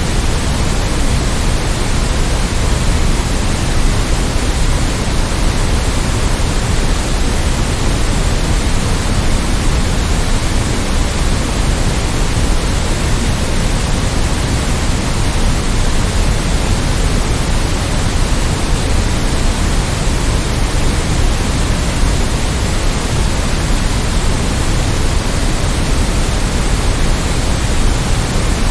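Steady, unchanging synthetic noise spread evenly across all pitches, somewhat heavier in the low end, of the kind played as a sleep or focus masking sound.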